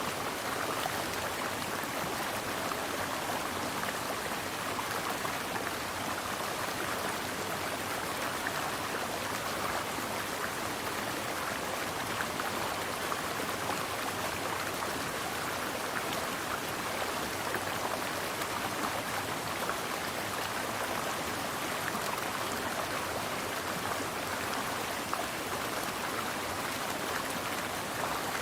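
Mountain stream flowing steadily: a continuous rush of water with many small splashes and trickles.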